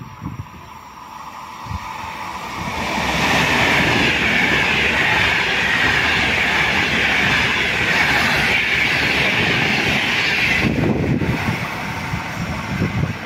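High-speed electric passenger train passing through at speed: the rolling noise of wheels on rail and rushing air builds from about two seconds in and holds loud for several seconds. It drops off sharply near the end to a lower rumble.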